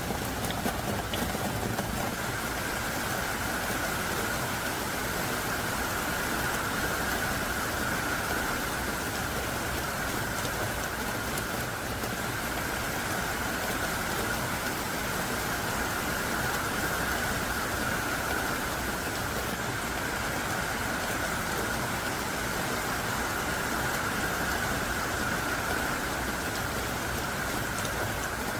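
Heavy downpour: dense, thick rain falling hard and steadily on surfaces, an unbroken hiss.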